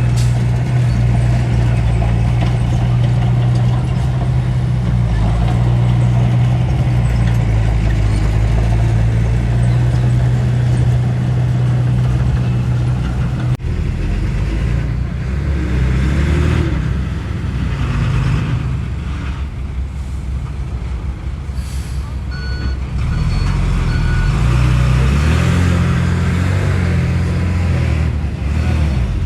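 Heavy diesel earthmoving machinery running loud and steady, then after a sudden change about halfway, engines working with rising and falling pitch. A reversing alarm beeps a few times near the end.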